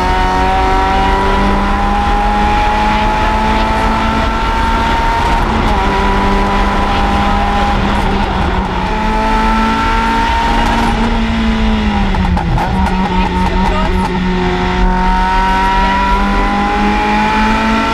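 Mazda MX-5 rally car's four-cylinder engine heard from inside the car, pulling under load with its pitch climbing slowly as the car accelerates. About twelve seconds in the revs drop, then climb again.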